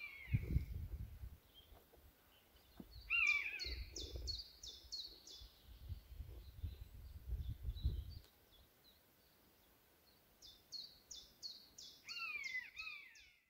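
Birds calling: runs of short, high, falling notes repeated about three times a second, with a few lower falling calls among them. A low rumble underneath stops a little past halfway.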